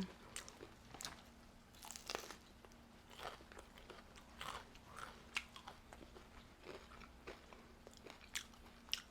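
Close-up chewing of a crispy fried potato-and-onion fritter (aloo chop): faint, irregular crunches and mouth sounds as the fried coating is bitten and chewed.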